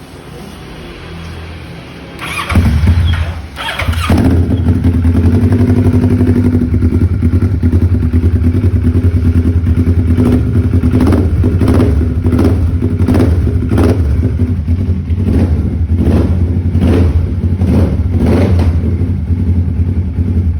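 Kawasaki ER-6N parallel-twin motorcycle engine breathing through an aftermarket SC Project S1 replica slip-on exhaust. It starts about two and a half seconds in and settles into a loud, steady idle. In the second half the throttle is blipped about a dozen times in quick succession.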